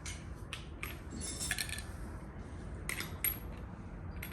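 Metal tools clinking and rattling as they are rummaged through in a tool bag: a string of short, sharp clinks, busiest about a second and a half in.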